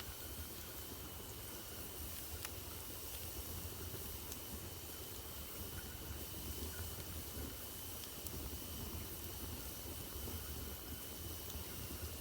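Wood fire burning in a fireplace: a steady hiss and low rumble, with a few sharp crackles from the burning logs.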